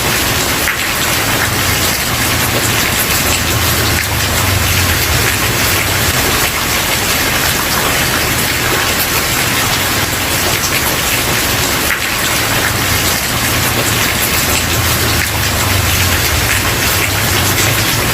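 Steady rain falling on a wooden porch: an even, continuous hiss of drops with a low rumble underneath, unchanging throughout.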